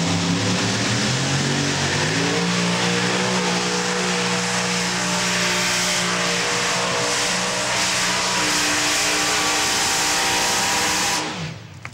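A 7,500 lb modified pulling tractor running at full power down the track. The engine pitch climbs about two seconds in, holds steady at high revs, and cuts off abruptly near the end as the pull finishes.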